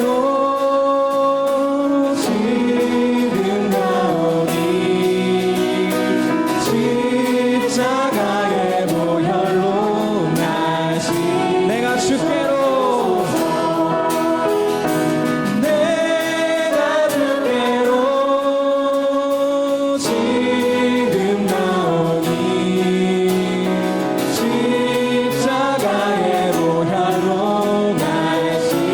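A group of voices singing the hymn melody together, with acoustic guitar accompaniment.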